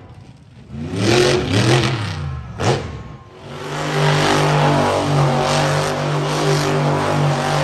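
Monster truck engine revving in short blips that rise and fall, with a sharp bang about three seconds in, then held at high revs, running hard near full throttle.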